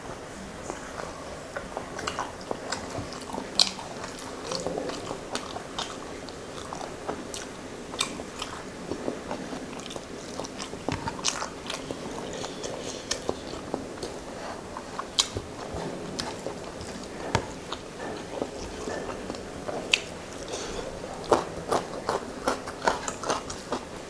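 Close-miked chewing of fish and rice eaten by hand, with wet mouth smacks and many sharp, irregular clicks.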